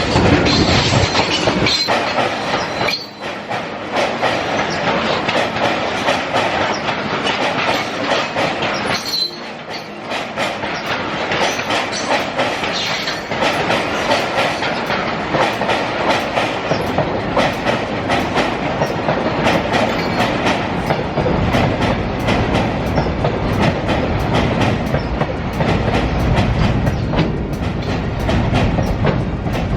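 Train running on the track, its wheels clattering over the rail joints in a steady stream of clicks over a dense rumble. The low rumble grows heavier about two-thirds of the way through.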